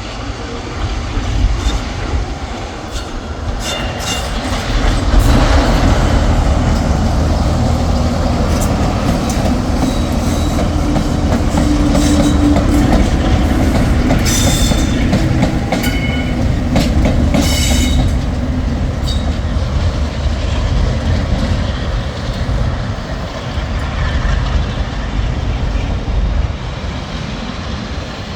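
Diesel-electric locomotives running through a station, with a heavy engine rumble and wheels clicking over the rail joints. It grows louder about five seconds in and fades a little near the end, with a few brief wheel squeals midway.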